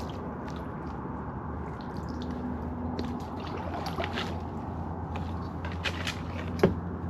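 Kayak paddle dipping and dripping in calm water, with small splashes and trickles, and a single sharp knock near the end.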